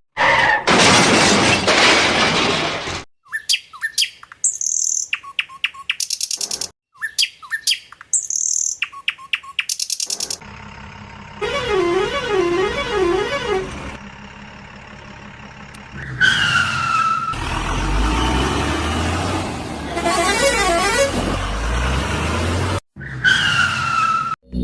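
A string of cartoon sound effects over vehicle engine noise: quick chirping clicks, a wavering wail, then falling whistle-like tones.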